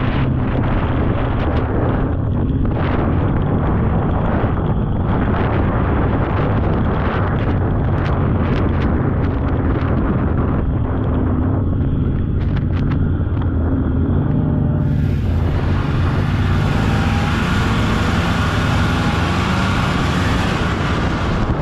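Polaris snowmobile engine running steadily under a constant rumbling drone while riding a trail. About two-thirds of the way through, a loud hiss joins it and lasts almost to the end.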